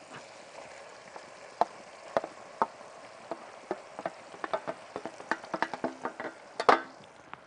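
Minced onion and chicken liver frying in hot oil in a pot, a steady sizzle, with a spatula knocking and scraping against the pot and plate as the onion is pushed in and stirred; the knocks come several a second from about a second and a half in.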